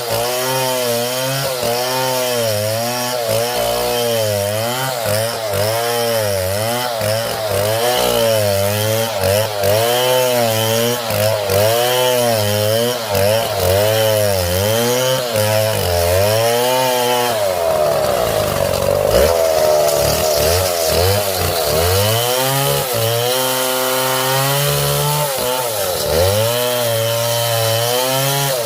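Chainsaw cutting through palm wood, its engine pitch rising and falling about once a second as the chain works through the cut. A little past halfway it drops lower for a couple of seconds, then picks up again.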